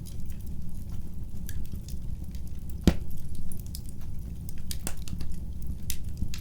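Wood fire crackling in a fireplace: a steady low rumble of flame with scattered sharp pops and snaps, the loudest pop about three seconds in.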